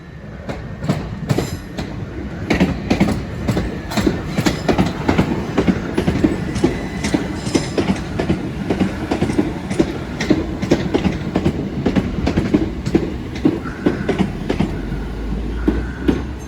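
Southeastern Class 375 electric multiple unit passing over the level crossing, its wheels clattering over the rail joints in a rapid, irregular run of knocks.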